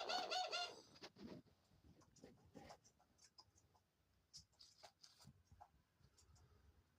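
Dove cooing with a quavering trill for about the first second, then faint, scattered scratchy clicks and rustles of its beak nibbling through hair during preening.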